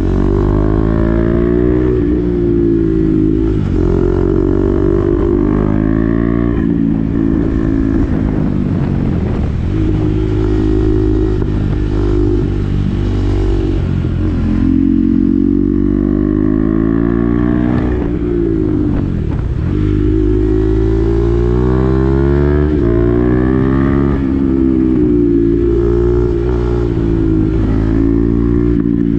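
KTM Duke 390's single-cylinder engine through an SC-Project exhaust with the dB-killer fitted, pulling up through the gears with the pitch climbing and falling back at each shift. It eases off the throttle sharply a few times along the way.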